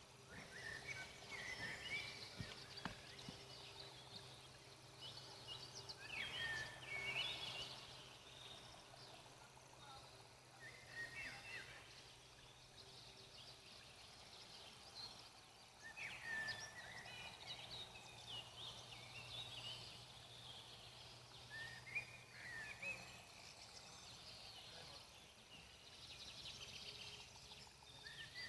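Faint birdsong in a forest: short chirping phrases every few seconds over a soft steady background, with a few faint campfire crackles early on.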